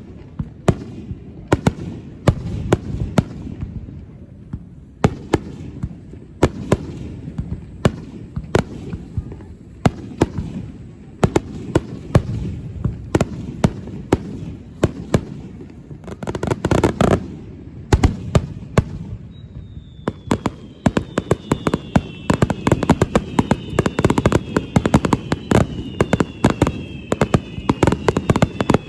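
Aerial fireworks display: shells bursting with repeated sharp bangs, and a dense crackle a little past the middle. From about two-thirds in, several whistling fireworks sound together, falling slowly in pitch, over a rapid barrage of bangs.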